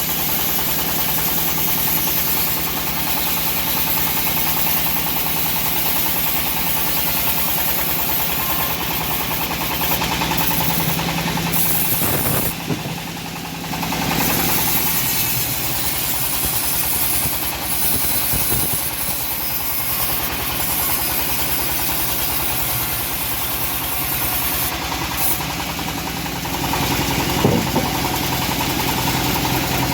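Home-built engine-driven bandsaw mill running steadily as it saws teak. The level drops briefly a little before halfway, and there is a single sharp knock near the end.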